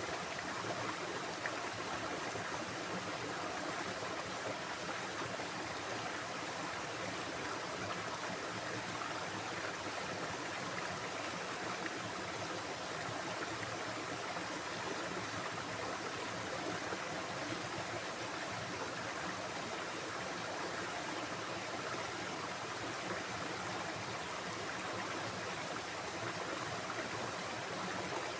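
Stream of water running and splashing over rocks with a steady, even rush.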